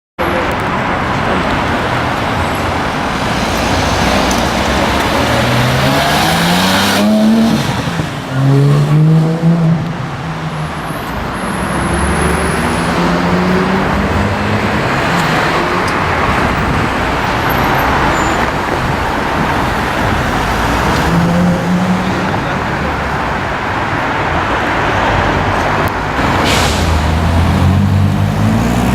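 Street traffic with a sports car's engine accelerating past several times, its note rising in pitch with each pull; the loudest run comes about eight seconds in.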